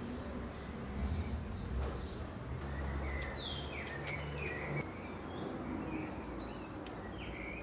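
Small birds chirping, a series of short downward-sliding notes from about the middle onward, over a low steady rumble of outdoor background noise that is loudest in the first few seconds.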